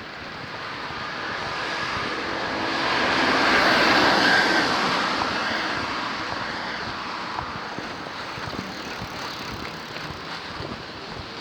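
A motor vehicle passing by: its noise builds steadily, is loudest about four seconds in, then slowly fades away.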